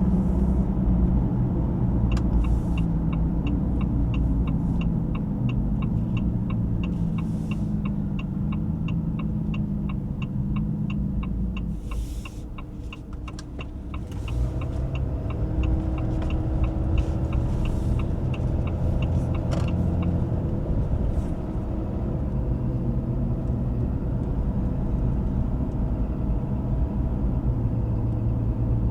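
Cabin sound of a Ram 2500's high-output 6.7-litre Cummins inline-six turbodiesel pulling the truck down the road. The engine eases off and quietens a little past the middle, then pulls again. A rapid, regular ticking runs through the first two-thirds.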